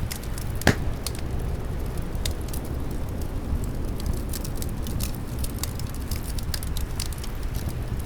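Wood fire crackling with frequent small pops and one louder pop under a second in, over a steady low rumble of wind.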